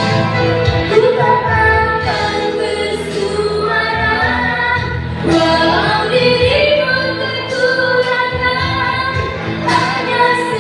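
A woman singing a slow song live with a band, her long held notes gliding over guitar and bass accompaniment.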